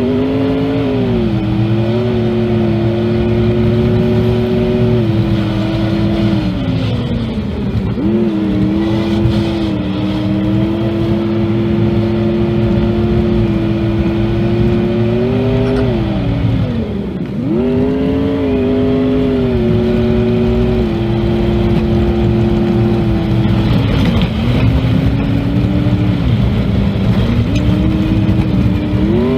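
Range Rover P38's 4.0-litre V8 engine pulling steadily under load on a rough track. Its pitch dips and builds again twice, about 8 and 17 seconds in, as the revs fall and rise.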